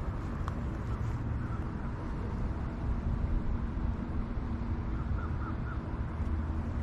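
Steady low outdoor rumble with a bird calling: one short call about a second in and three quick calls near the end.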